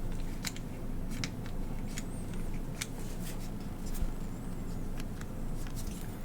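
Plastic spring clamp worked in the hands, giving irregular sharp clicks and snaps, roughly one or two a second, over a low steady hum.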